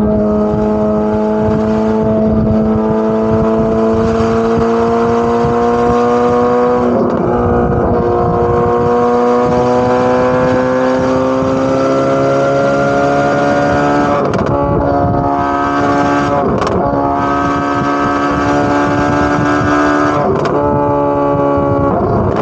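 Corvette C8 Z06's naturally aspirated V8 exhaust under steady acceleration. The engine note climbs slowly in pitch and breaks briefly three times, roughly every seven seconds.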